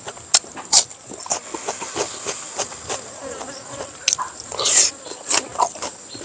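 Close-miked eating sounds: irregular wet clicks and smacks of chewing, with a louder slurp-like burst near the end. A steady high-pitched whine sits behind them.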